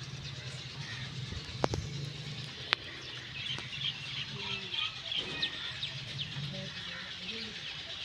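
Small birds chirping, with a low steady hum that fades out about three seconds in and two sharp clicks about a second apart.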